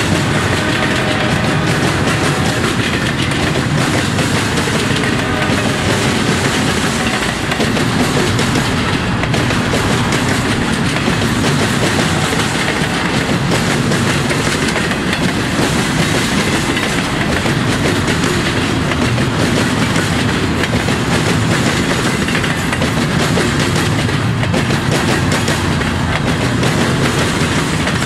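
Double-stack intermodal freight cars rolling past close by: a steady, loud rumble of steel wheels on rail with a continual clatter of wheel impacts.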